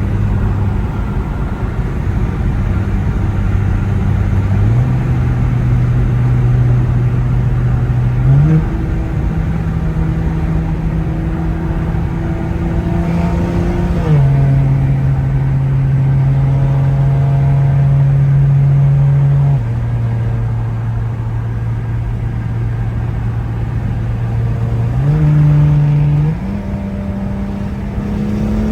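BMW 335i E92's straight-piped N55 turbocharged inline-six under way, a steady exhaust drone. Its pitch holds level for seconds at a time and jumps in abrupt steps: up twice, down twice, then up again near the end.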